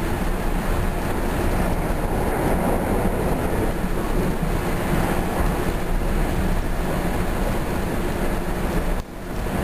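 Steady rumble of a moving Bombardier BiLevel rail coach heard from inside the car: wheels on the rails and body noise. Near the end the sound drops off sharply for a moment and comes straight back.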